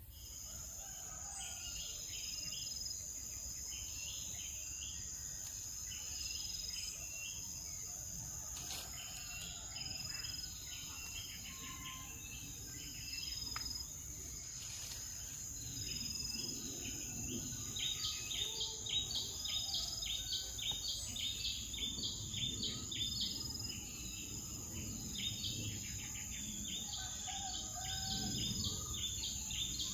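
Steady high-pitched insect drone with many short bird chirps over it, the chirps coming thicker and louder from about halfway through.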